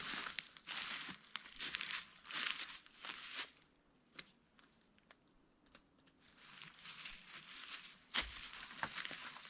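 Crinkly synthetic material being handled: irregular bouts of rustling and crinkling, with a quieter spell in the middle broken by a few sharp clicks.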